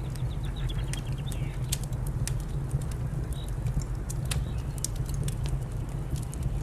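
Wood fire crackling, with frequent sharp pops over a steady low rumble. A small bird sings a quick trill of chirps in the first second or so, and gives a couple of faint single calls midway.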